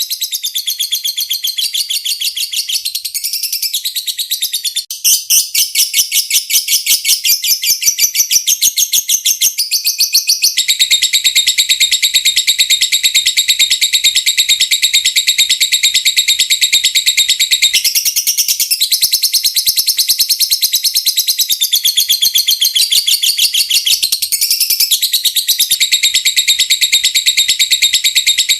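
Lovebird singing a long, unbroken chattering trill (the 'ngekek panjang' with 'ngetik' ticking notes that bird keepers prize): a fast, steady run of high chirps that changes its note a few times.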